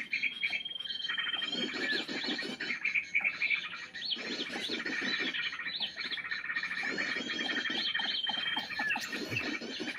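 Many small birds chirping and twittering in quick, overlapping calls, with a steady high whistle held about a second, near the start and again near the end.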